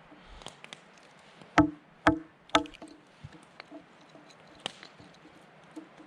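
Small pieces of firewood being split by batoning: three sharp knocks about half a second apart, each with a brief ring, among lighter clicks and taps as the wood is handled.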